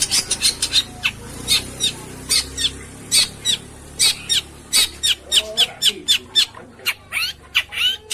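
Long-tailed shrike (pentet) calling: a loud string of short, harsh, downward-sweeping notes, coming irregularly at two to four a second, with quicker runs in the middle and near the end. This is the kind of song played to a silent caged shrike to provoke it into answering.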